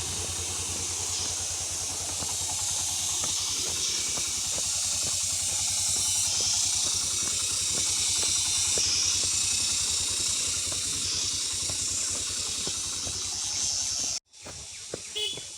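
Motorcycle engine running at a steady low idle under a loud, even hiss. Both cut off suddenly near the end.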